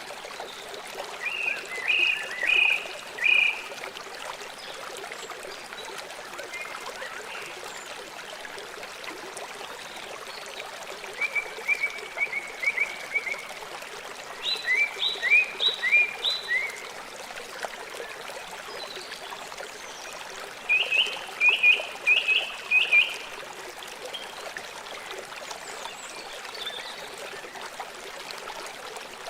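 River water running steadily, with four short runs of high, quick chirping calls from a small animal, four to six notes each: one near the start, two in the middle and one later on.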